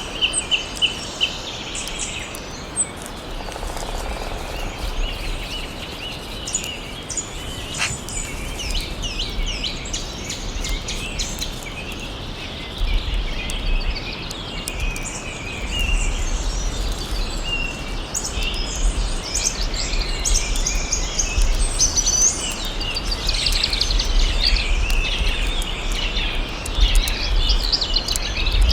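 Several birds singing and chirping together, many short calls and trills overlapping, over a steady background hiss of forest ambience.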